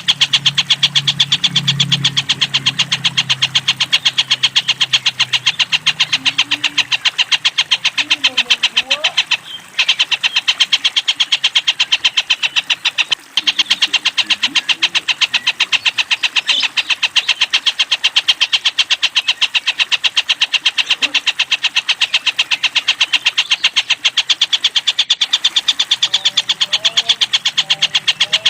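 Domestic canary singing a fast, continuous trill of evenly spaced high notes, about ten a second, with two brief breaks near the middle.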